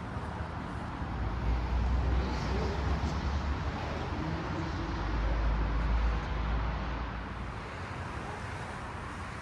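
Outdoor city ambience of road traffic, a steady hum with a low rumble that swells twice and eases off near the end.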